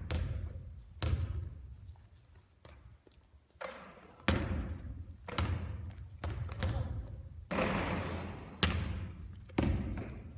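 A basketball bouncing and hitting hard surfaces in a gym, about ten separate thuds at uneven spacing, each trailing off in a fading echo.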